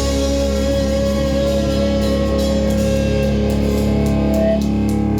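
Rock band playing live, with distorted electric guitars sustaining a held chord that rings steadily, and faint rhythmic cymbal taps coming in over the second half.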